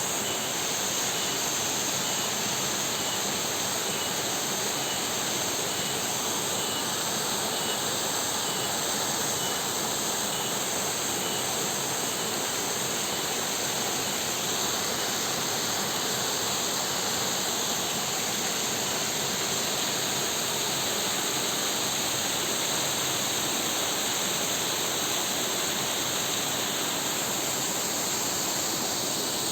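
Steady rushing of a waterfall and river, an even unbroken roar of water. A faint, evenly pulsed insect chirping runs through it for about the first half.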